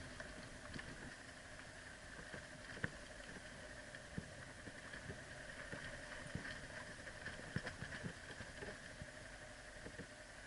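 Motorcycle riding down a rocky trail, heard faintly: a steady engine and ride noise with irregular knocks and clacks from the wheels and suspension over loose rock.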